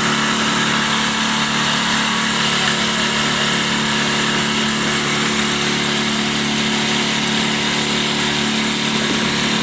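Small motorboat's engine running at a steady speed: an even drone with a constant hiss above it.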